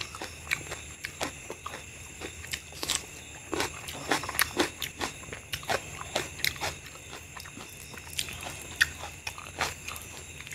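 Close-miked eating sounds: biting and chewing a raw green chilli, then mouthfuls of rice and mutton curry eaten by hand, with many irregular crisp clicks and wet smacks.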